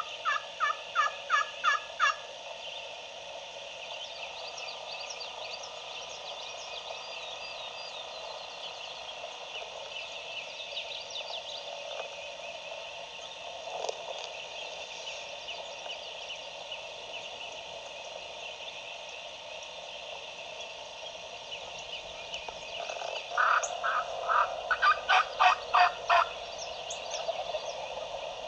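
Two runs of loud, evenly paced wild turkey yelps, about four notes a second: a short run at the start and a longer one about 23 seconds in. A steady chatter of small songbirds runs underneath.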